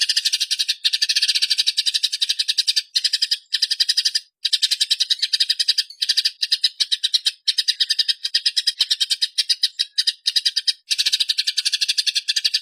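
Eurasian tree sparrows chattering in a fast, unbroken run of high chirps, the agitated chatter of sparrows fighting, broken by a few short pauses.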